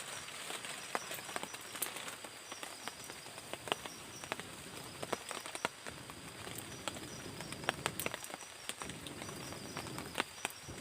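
Night tropical forest ambience: insects chirping and trilling in a steady, repeating high pulse, with many scattered sharp clicks and ticks throughout.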